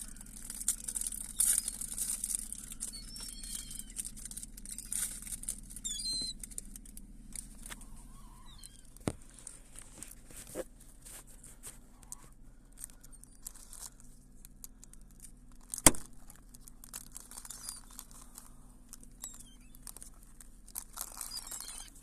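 Crackling, rustling noise close to the microphone, with faint high bird calls in the first several seconds and a few sharp clicks, the loudest about 16 seconds in.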